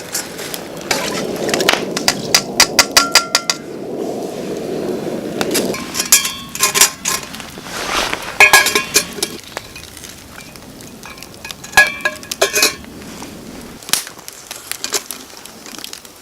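Metal cookware and utensils clinking and knocking together in irregular bursts of several quick strikes, each with a short metallic ring.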